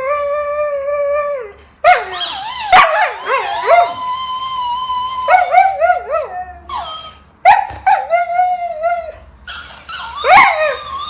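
A dog howling and yowling in a string of about five long calls, each wavering up and down in pitch and some held steady for a second or more, with short breaks between them.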